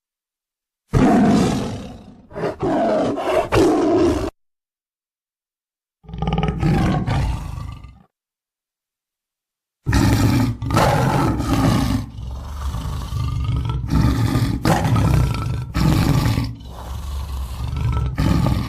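Tiger roaring and growling: deep, rough calls in three loud stretches that stop dead twice, about a second in after silence, again from about six seconds, and continuously from about ten seconds on.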